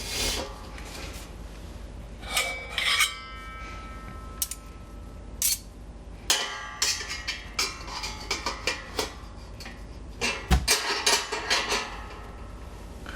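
Metal parts of a FLAME STOVE MAX fire pit being handled and packed together: scattered clinks and scrapes of metal on metal, with one knock ringing on briefly about three seconds in, then a quicker run of clatters from about six seconds in, the loudest knock about ten and a half seconds in.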